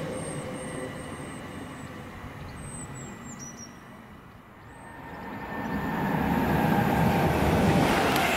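Train noise fading away to a low point about halfway through, then an express passenger train approaching and passing close at speed, its rumble swelling steadily over the last few seconds.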